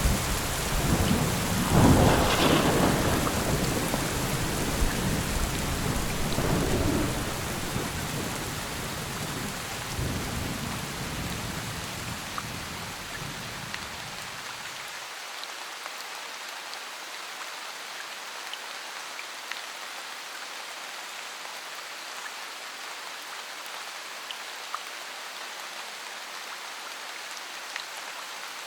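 Steady rain with a loud thunderclap about two seconds in, its rumble rolling on with a second swell and fading over the next dozen seconds. About halfway through, the deep rumble cuts off abruptly, leaving only the hiss of rain with scattered drop ticks.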